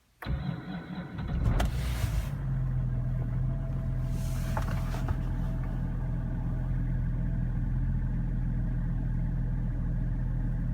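BMW 535d E60's twin-turbo straight-six diesel cold-started: the starter cranks for about a second and a half before the engine catches, flares up briefly, then settles into a steady idle. The owner judges the starter motor to be weak and due for replacement.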